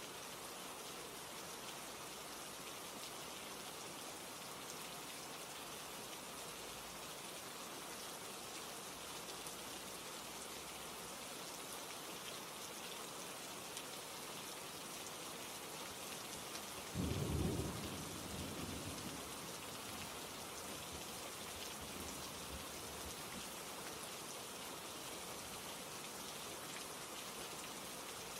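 Steady rain, with a short low rumble of thunder a little past the middle that dies away over a couple of seconds.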